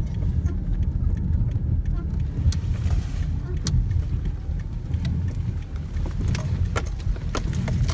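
Steady low rumble of a motor vehicle, with a run of sharp clicks in the last couple of seconds.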